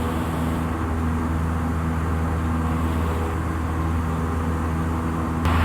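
Single-engine light aircraft's piston engine and propeller at full climb power just after takeoff, a steady low drone that holds constant throughout.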